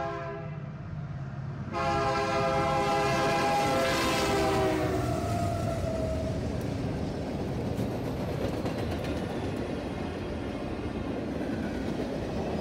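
Freight train led by Canadian Pacific diesel locomotives passing close by. Its horn gives a short toot, then a long blast whose pitch drops as the locomotives go past, followed by the steady rumble and clatter of the freight cars rolling by.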